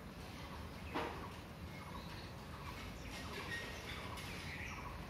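Birds chirping faintly in short scattered calls over a steady low background hum, with one sharp knock about a second in.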